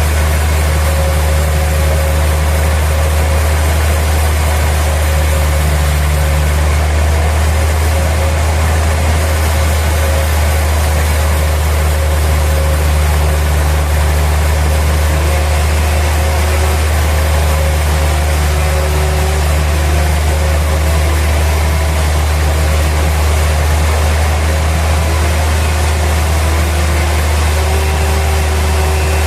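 Sawmill machinery running steadily, with a strong low hum and no change in load.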